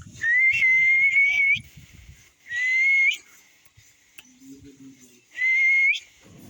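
Three clear whistled notes, each held at one steady pitch that slides up a little at the start and end; the first lasts about a second and a half, the other two under a second, with quiet gaps between.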